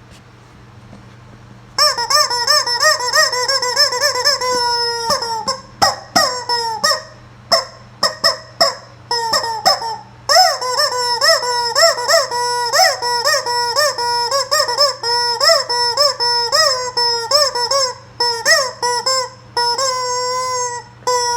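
Rubber squeaky chicken toy squawking as it is squeezed over and over, starting about two seconds in: quick runs of short honking squawks broken by a few longer drawn-out wails.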